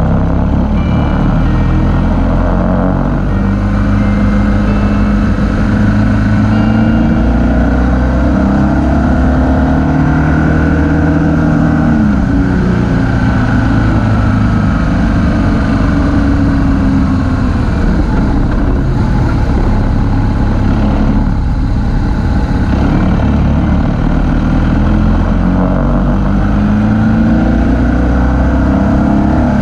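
Motorcycle engine running under way, its pitch rising and falling repeatedly as the throttle opens and closes and the gears change, over a steady rush of road and wind noise.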